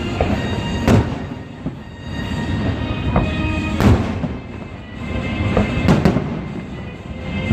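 Fireworks exploding in a series of booms: one about a second in, one near four seconds, and two close together near six seconds, with music playing underneath.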